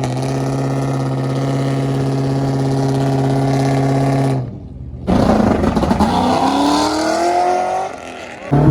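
A car engine held at steady revs, which cuts off suddenly about four seconds in; after a short gap, a car accelerates hard, its engine note rising for about three seconds.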